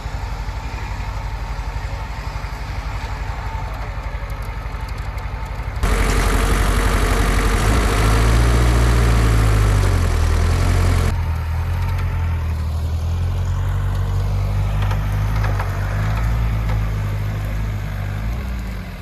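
Off-road 4x4's engine idling steadily. About six seconds in, a sudden loud noisy stretch starts and the engine note rises as it revs. This cuts off abruptly about five seconds later, leaving the engine running at a varying speed.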